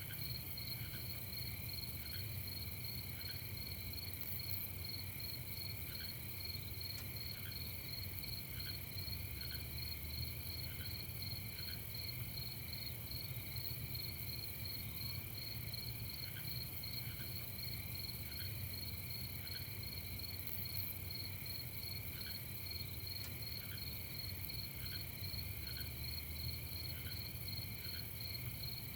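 Night chorus of crickets chirping in a steady, rapid pulsing trill, with scattered short lower chirps in small groups, over a faint low rumble.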